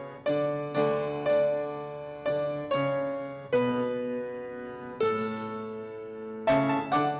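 Piano playing a slow instrumental piece in struck chords, each fading after it is played, with a quicker run of chords near the end.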